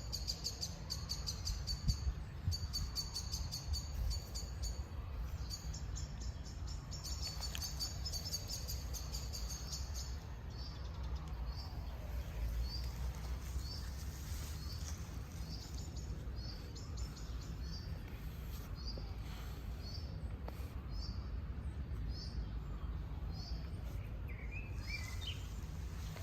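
Birds chirping: rapid high twittering trills for the first ten seconds, then single short chirps about once a second, and a lower call near the end. A steady low rumble runs underneath.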